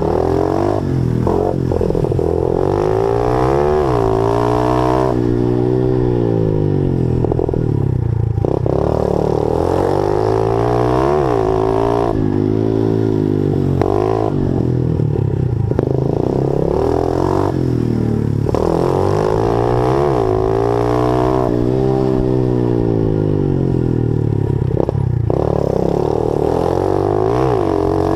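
Honda 50cc pit bike's four-stroke single-cylinder engine revving up and falling back over and over, its pitch rising and dropping every few seconds as the throttle opens and closes, with rattling from the bike.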